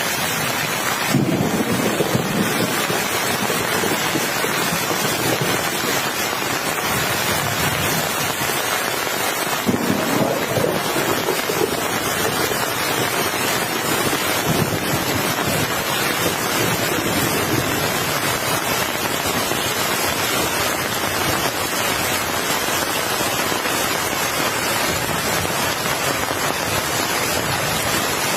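Heavy rain falling in a steady hiss, with two low rolls of thunder: one about a second in, another about ten seconds in.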